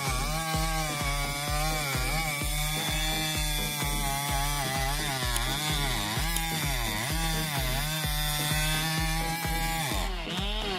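Husqvarna 3120XP, a large 118cc two-stroke chainsaw, running under load as it cuts wood; its engine pitch repeatedly dips and recovers. Background music with a steady beat plays underneath.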